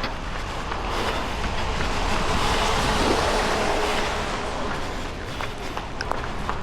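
A vehicle passing close by: a rushing noise that builds over about two seconds, peaks with a faint steady hum, then fades, with light footsteps underneath.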